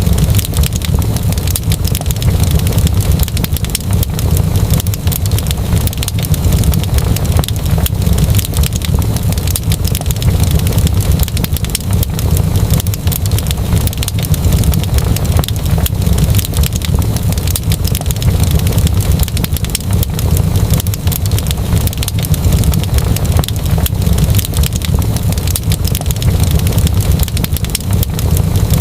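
Wood fire crackling in a fireplace: a steady low rumble with many sharp pops and crackles all through.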